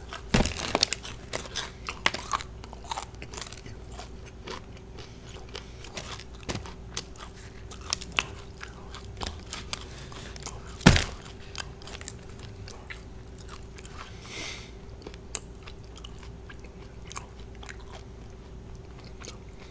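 Close-miked biting and chewing of a crispy fried chicken breast, with crunching bites packed together near the start and a single sharp crack about eleven seconds in. A faint steady hum runs underneath.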